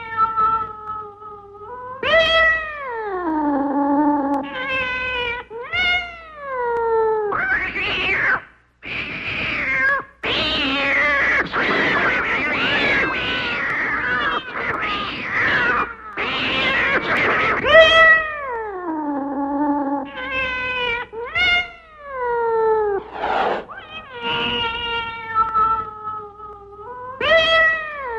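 Cats yowling in long, drawn-out calls that slide down in pitch. About ten seconds in, a harsh, noisy stretch of screeching lasts several seconds, and then the falling yowls start again.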